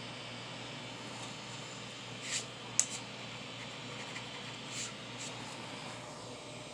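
Creality CR-6 SE 3D printer running steadily with its fans going during auto bed levelling. A few short swishes and one sharp click sound about halfway through.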